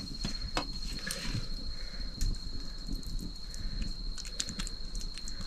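An insect trilling as one steady high-pitched tone, with scattered faint clicks and knocks over it.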